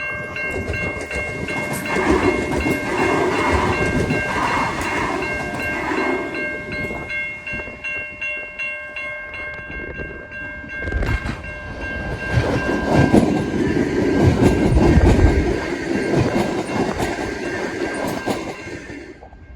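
Bombardier electric multiple-unit passenger train passing, its wheels clattering over rail joints, with a steady high whine throughout. The noise swells twice and fades away near the end.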